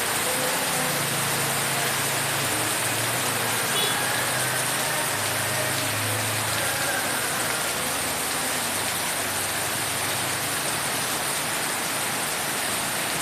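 Heavy rain falling steadily, with a vehicle engine running at low revs from shortly after the start, growing louder around the middle and then fading away.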